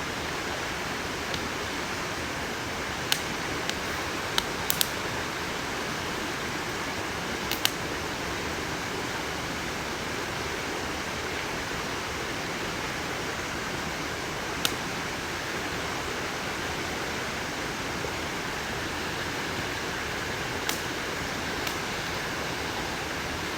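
Wood campfire burning, with occasional sharp pops and crackles over a steady rushing hiss.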